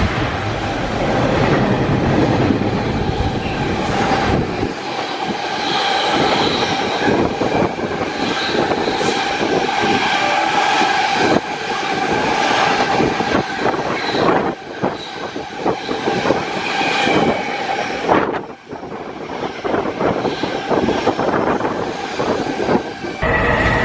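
Freight train passing close by, its wagons' wheels clattering rapidly over the rail joints under a steady ringing tone from the wheels and rails. The sound changes abruptly near the end.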